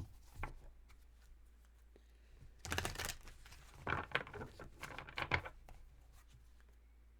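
A deck of oracle or tarot cards being shuffled and handled, in three short papery bursts of card noise.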